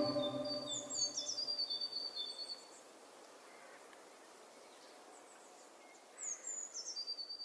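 A bird singing twice, about five seconds apart: each phrase opens with a few quick high falling sweeps and runs into a string of short, even chirps, over a faint hiss of outdoor ambience. The fading end of soft organ-like background music is heard in the first moments.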